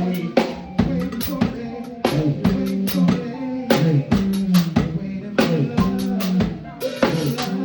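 Live band playing an instrumental passage: a drum kit with kick drum and snare or rimshot hits in a steady groove over held pitched notes.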